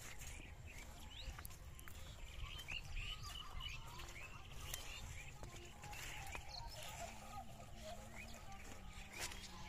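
Small birds chirping: many short, quick chirps, scattered throughout, over a steady low rumble.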